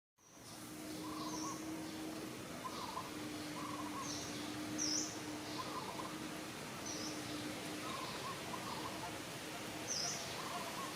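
Outdoor ambience with short, repeated bird chirps and calls scattered through it over a steady hiss and a faint steady low hum. The sound drops out for a moment at the start, then fades back in.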